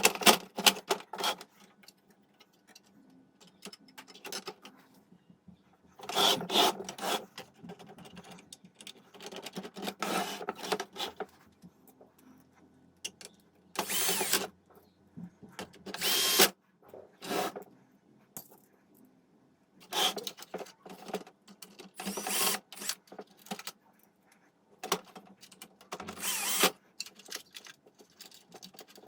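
Small power tool, such as a drill or electric screwdriver, run in short bursts a few seconds apart, over a faint steady hum.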